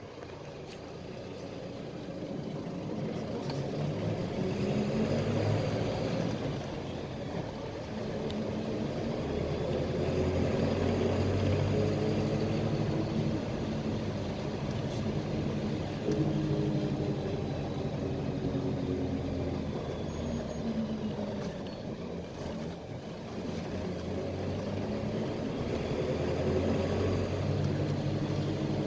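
PAZ-320405-04 Vector Next bus engine running under way, heard from inside the bus over road noise. The engine note builds over the first few seconds, with brief drops in level about seven and about twenty-two seconds in.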